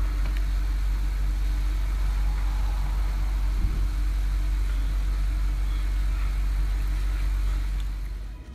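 Vehicle engine running steadily, heard from inside the cabin as a low rumble with a steady hum; it drops away about eight seconds in.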